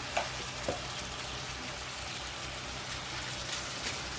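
Pot of water boiling on the stove, a steady bubbling hiss, with two light knocks in the first second.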